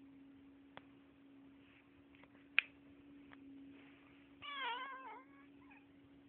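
Sleeping sphynx cat making one short, wavering mew of about a second, a little past the middle. Before it come a few faint ticks and one sharp click. A steady low hum runs underneath.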